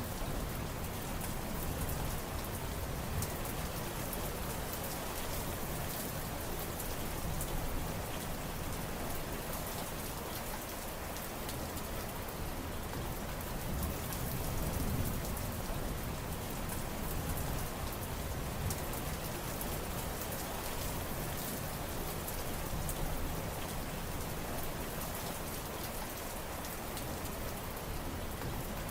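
Steady heavy rain falling, a dense hiss with many individual drops pattering through it, over a low rumble that swells and fades every several seconds.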